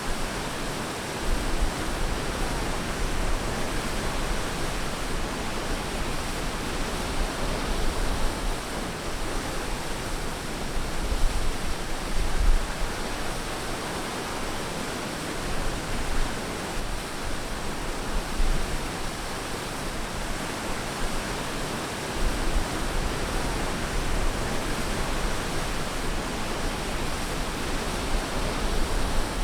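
Ocean surf washing onto a beach: a steady rushing wash with gentle swells, and a deep rumble that comes and goes.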